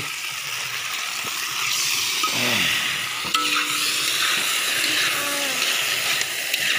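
Duck meat sizzling steadily as it fries in a large wok, with a metal spatula stirring and scraping the pan now and then.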